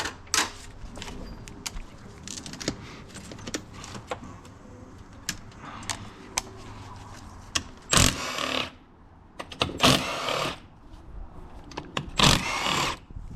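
Tool and parts work on a motorcycle engine being taken apart: scattered small metal clicks and clinks, and three loud noisy bursts of under a second each in the second half.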